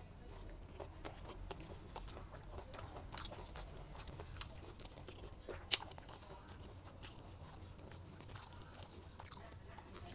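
A person chewing jackfruit flesh: wet mouth smacks and small clicks, with one sharper click a little past halfway.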